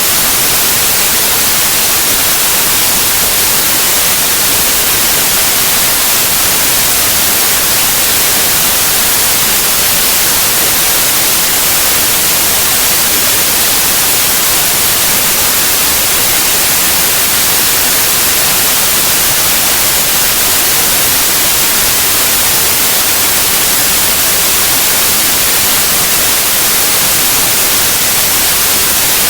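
Steady, loud white noise: an even hiss across the whole range, with no change or break.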